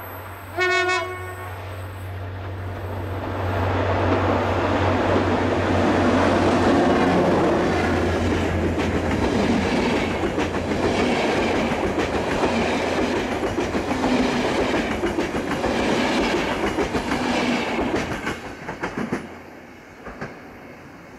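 Diesel passenger train sounding one short horn blast about a second in, then passing close by. The engine's low drone is heard first, then the rhythmic clickety-clack of the coaches' wheels over the rail joints, and the sound dies away near the end.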